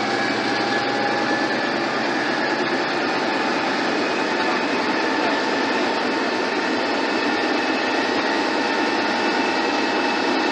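A train running on the rails: a steady rolling noise with a few faint, steady high tones over it, cut off abruptly at the end.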